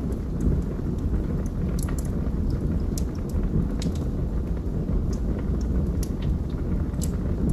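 Log fire burning in a fireplace: a steady low rumble of flames with sharp crackles and pops from the burning wood, about one a second.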